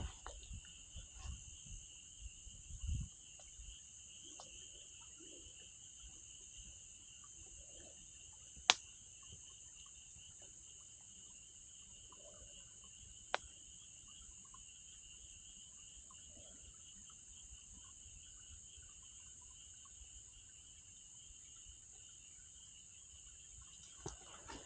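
Faint, steady chorus of insects, likely crickets, shrilling in two high bands, with two sharp single pops from the wood campfire about four and a half seconds apart. A few soft low knocks come in the first few seconds.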